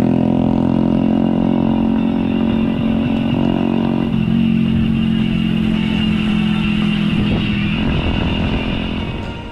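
A motor vehicle engine running steadily close by, with a low even hum that fades out near the end.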